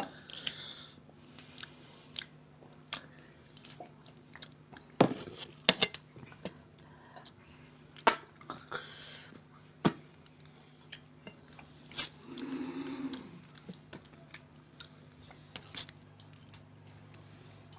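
Close-up eating sounds of rice and fish curry eaten by hand: chewing and mouth noises with scattered short sharp clicks, a few louder than the rest.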